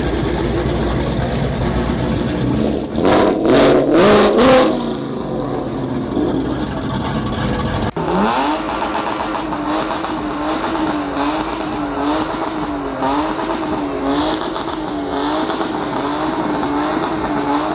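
Car engines revving. There are a few loud short revs about three to four and a half seconds in. Later an engine climbs, holds a steady, slightly wavering pitch for several seconds, and drops away near the end.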